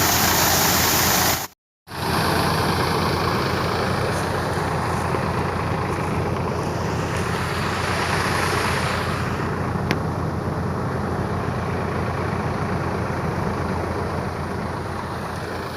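Tractor-powered wheat thresher running steadily: a low engine hum under a dense mechanical rush. The sound cuts out for a moment near the start, and a single sharp click sounds about ten seconds in.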